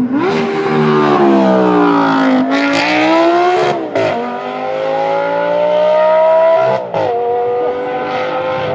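Lamborghini Gallardo LP570-4 Spyder Performante's V10 through a Larini sports exhaust, accelerating under load: the revs ease off, then climb, and twice the pitch drops suddenly with a sharp crack as it shifts up, about four and seven seconds in.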